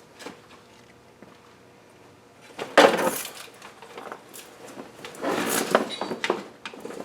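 Metal engine parts and hand tools being handled: a loud clunk with a scraping rattle about three seconds in, then more clattering around five to six seconds.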